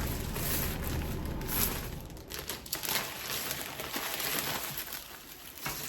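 Packaging crinkling and rustling as it is handled, in irregular crackles that are louder in the first couple of seconds and softer after.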